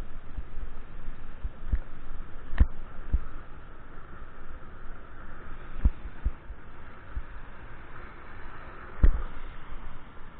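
Steady rushing noise with irregular low knocks and thumps, about eight in all, from a bike in motion: the jolts of riding over the road surface.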